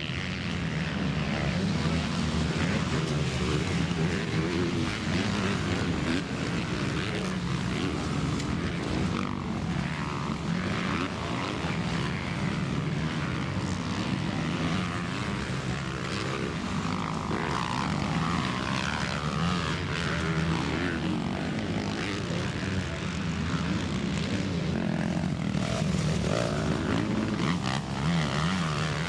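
Several MX2 motocross bikes racing, their engines revving up and down and overlapping in a continuous mix of rising and falling pitches.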